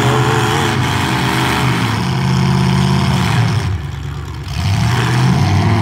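Demolition derby trucks' engines running and revving, dropping briefly about four seconds in and then picking back up.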